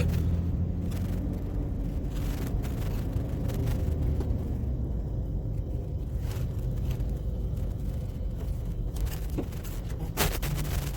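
A motor vehicle moving slowly with its engine running: a steady low rumble, with a few short knocks and clicks.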